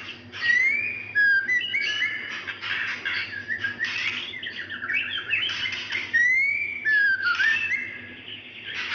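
Female white-rumped shama calling in breeding condition, calling for a male: clear whistled notes that slide up or down, mixed with quick chattering rattles, in short phrases with brief pauses between them.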